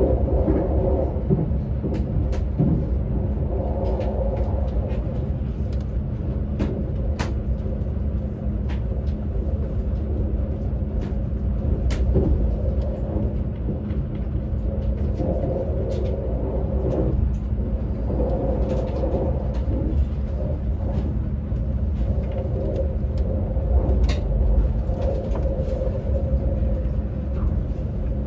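ICE high-speed train running, heard from inside the carriage: a steady low rumble with a constant hum, and scattered sharp clicks.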